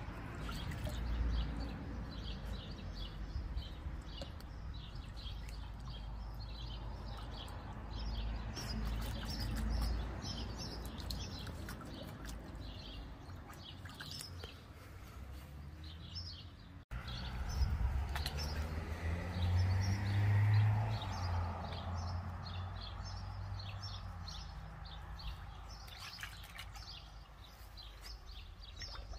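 Small birds chirping and twittering throughout, over a low rumble, with light splashing as a dog paws at the water of a shallow paddling pool.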